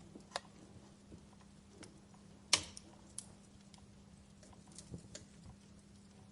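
Wood fire crackling in a fireplace: scattered sharp snaps and pops. The loudest is a single pop about two and a half seconds in, and a few smaller crackles come near the end.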